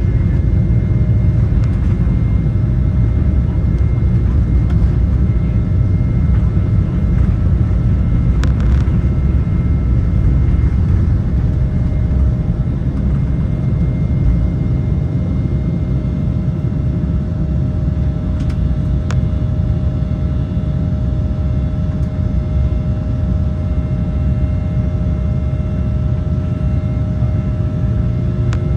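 Embraer E190's GE CF34-10E turbofan engines during takeoff, heard from inside the cabin. The engines run as a loud, steady rumble with several steady whining tones over it. A few brief clicks come through, about eight and eighteen seconds in.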